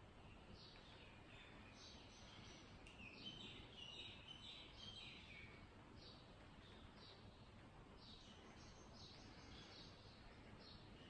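Faint bird chirping over a low background hiss: short falling chirps about once a second, with a busier spell of twittering a few seconds in.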